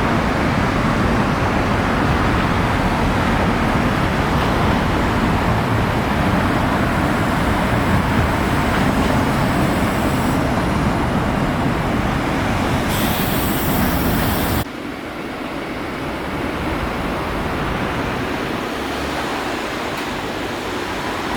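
Steady road traffic noise, an even wash of passing vehicles, that drops suddenly to a quieter level about fifteen seconds in.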